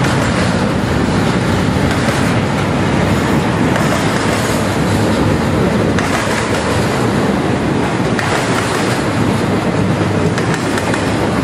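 Double-stack intermodal container well cars rolling past at close range: a steady, deep rolling noise of steel wheels on the rails, with a few faint clicks.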